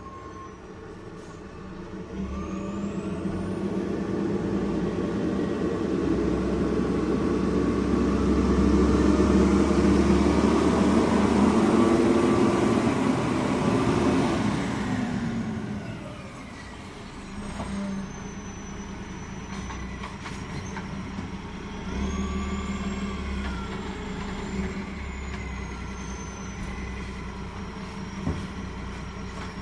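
Road traffic: a motor vehicle's engine builds up, is loudest around ten to fourteen seconds in, then falls away with a drop in pitch as it passes, leaving a lower steady engine hum with some thin high whines.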